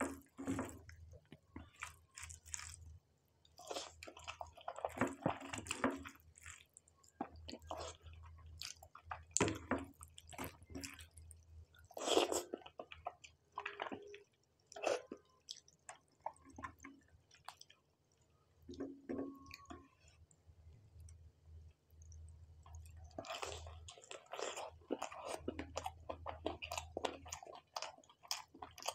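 Close-miked chewing of fried prawn, fried chicken and noodles by hand, in irregular bursts of short sharp clicks and wet mouth noises with brief pauses between mouthfuls.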